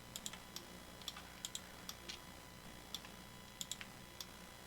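Computer keyboard keys and mouse buttons clicking lightly and irregularly, about a dozen clicks, some in quick pairs, as shortcuts are pressed and objects are moved, over a faint steady low hum.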